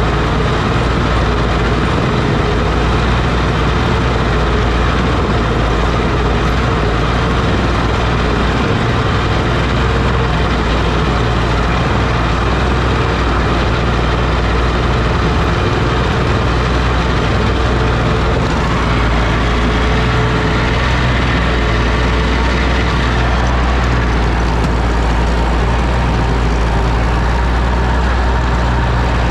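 Oliver OC-6 crawler tractor's engine running steadily, a loud continuous low drone.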